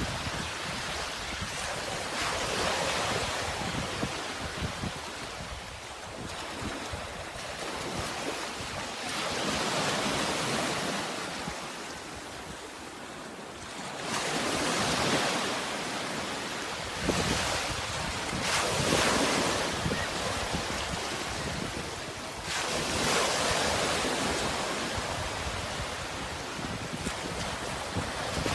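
Sea waves washing in one after another: a steady rushing hiss that swells as each wave breaks and fades as it draws back, every few seconds.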